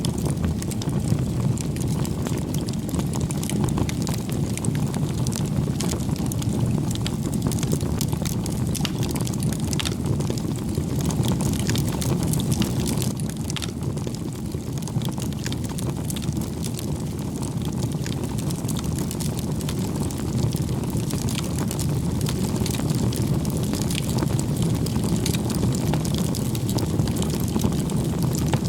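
Wood bonfire burning with a steady low rush of flame and many small irregular pops and crackles.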